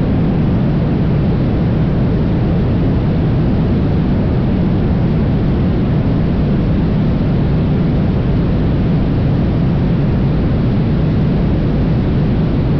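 Cessna 172 in flight: the engine and propeller drone steadily, mixed with rushing wind noise.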